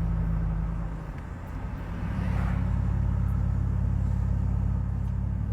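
Car engine running, a steady low drone that eases off about a second in and builds again around two seconds in.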